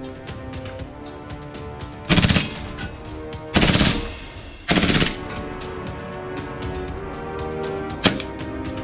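Toy gun firing three short rapid-fire bursts about a second apart, then a single shot near the end, over background music with a steady beat.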